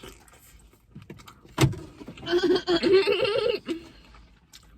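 A car door lock clunks once, then a person laughs for over a second.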